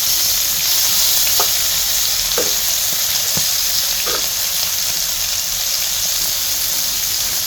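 Bacon sizzling in a hot pan as its fat renders out: a steady frying hiss with a few short ticks in the first half.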